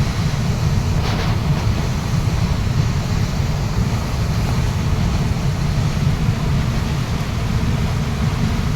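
Waterfall water rushing and crashing in a loud, steady roar, heaviest in a deep low rumble.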